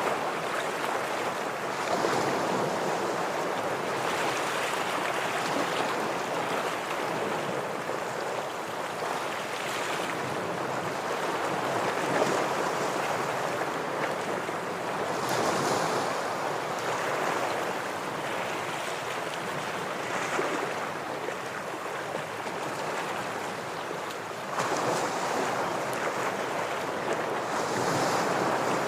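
Ocean waves breaking against shoreline rocks: a continuous wash of surf that swells with a new wave every few seconds.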